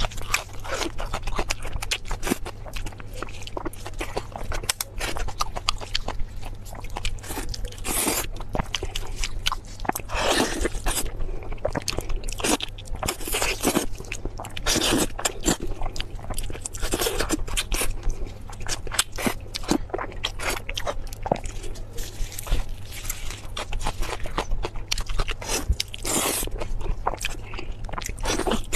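Close-miked chewing and biting of braised pork tail: continuous wet mouth clicks and chewing, with a few louder bites.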